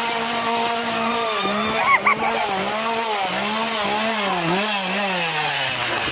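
Two-stroke chainsaw engine being revved over and over, its pitch climbing and falling with the throttle, then sinking back toward idle near the end.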